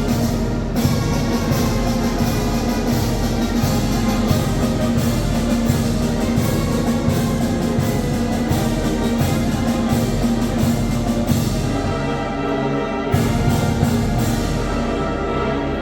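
A Mixe brass band (banda filarmónica) playing: brass and wind instruments over a steady drum beat, loud and continuous.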